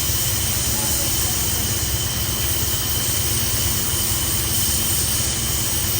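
Heavy boring machine running steadily: a constant low hum with a thin, steady high whine above it.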